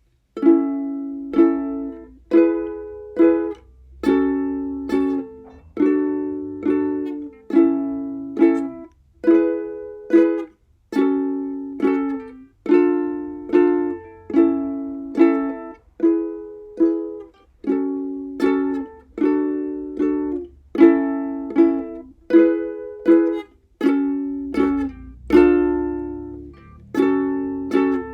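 Background music: a plucked ukulele-like instrument strumming chords in a steady, even rhythm, about one chord a second, each ringing and fading before the next.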